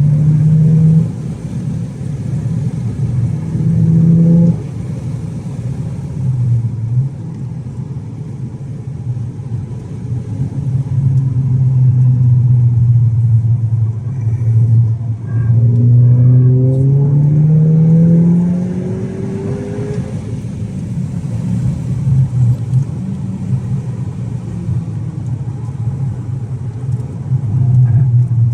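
Volkswagen Golf GTI Mk5's engine pulling hard, its pitch climbing under acceleration and dropping back several times as the car is driven on track. A few faint clicks come through near the middle.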